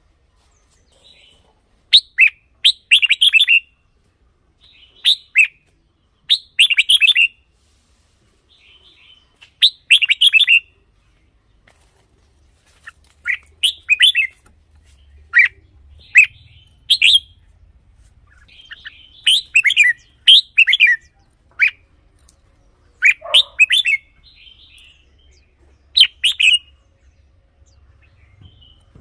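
Red-whiskered bulbul singing: short phrases of quick sliding notes, each a second or less, one every one to three seconds.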